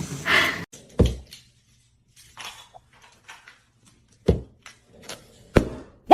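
Three dull thumps, well apart, with quiet gaps between them.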